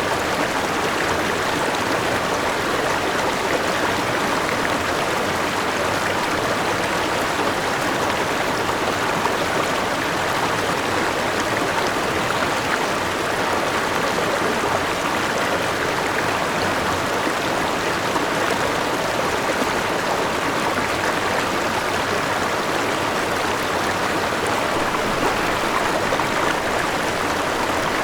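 Forest river rushing over rocks with a small waterfall, a steady, even rush of water.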